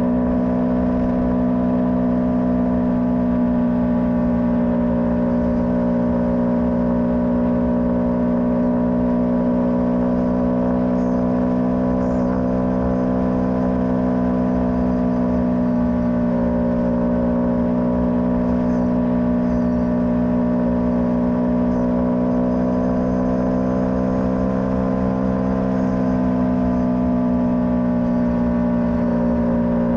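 A motorcycle engine running steadily while riding at an even speed. Its note dips and rises slightly a few times.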